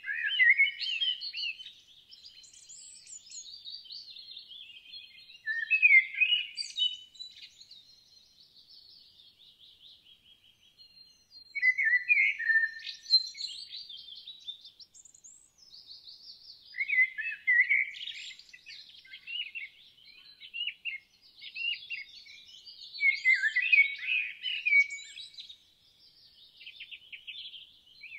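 Songbird singing: loud, chirping phrases about every five to six seconds, with softer twittering between them.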